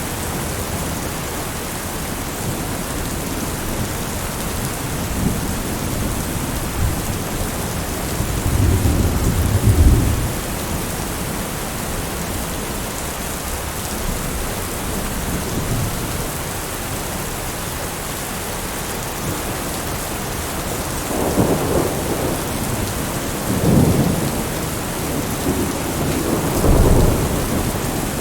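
Heavy rain beating steadily on a window pane, with low rolls of thunder: one about a third of the way in, and three more in quick succession near the end.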